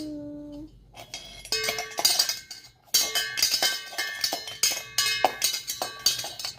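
Rapid, irregular clinking and clanging of metal kitchenware, the strikes ringing at several pitches, starting about a second and a half in. A brief child's vocal tone is heard at the start.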